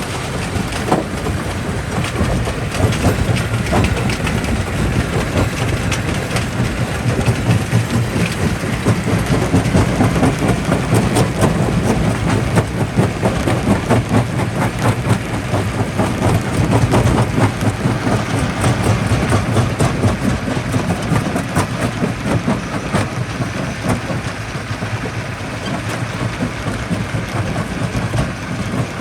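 Jaw crusher running with a steady low rumble, overlaid with a dense, irregular clatter of rocks knocking and cracking as they are crushed.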